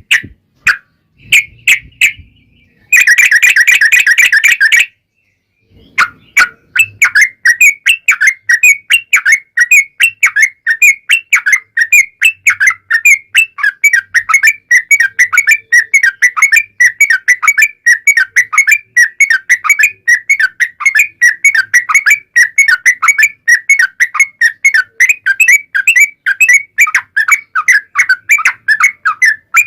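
Yellow-vented bulbul (trucuk) song: short, loud chirping notes around a bright whistle pitch, a dense burst a few seconds in, then from about six seconds on a long, fast, unbroken run of notes (the 'ropel' style).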